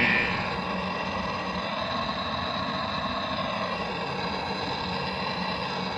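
A short high electronic beep, then a steady low hum.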